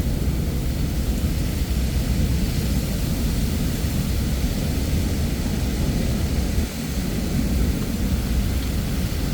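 Heavy thunderstorm rain hissing steadily over a continuous low rumble of thunder.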